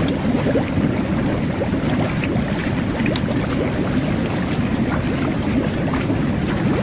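Whirlpool jet bath running: water churning and bubbling steadily, a constant low rumble of water with many small bubbles popping through it.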